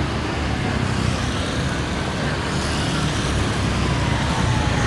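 Road traffic passing close by: a steady rumble of engines and tyre noise, with a faint whine that falls in pitch through the second half as a vehicle goes past.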